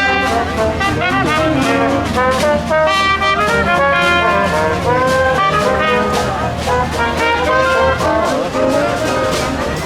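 Jazz brass music, with trumpet and trombone playing a moving melody over a steady beat.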